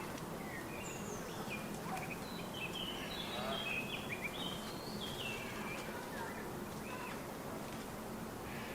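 Small garden birds chirping and calling: a busy run of short high chirps in the middle, with a few thin falling notes near the start, over a steady low hum of background noise.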